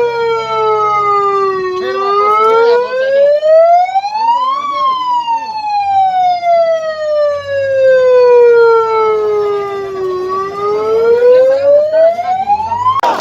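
Siren wailing loudly, its pitch sliding slowly: falling for the first two seconds, rising to a peak, falling for about six seconds, then rising again near the end.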